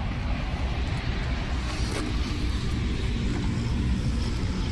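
Steady low rumble of road traffic, with a faint engine hum coming in about two seconds in as a vehicle passes.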